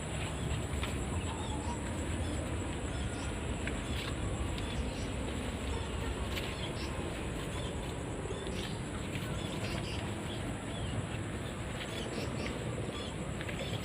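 Outdoor ambience: a steady hiss with small birds giving short chirps here and there, over a continuous high-pitched insect whine.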